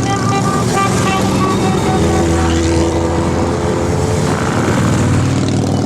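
Motorcycle engines running, with one engine revving up and rising in pitch about two seconds in.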